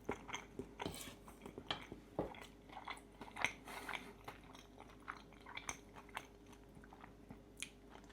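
Close-miked eating: chewing a mouthful of pistachio pesto fettuccine with crispy bacon, with irregular wet clicks and crunches.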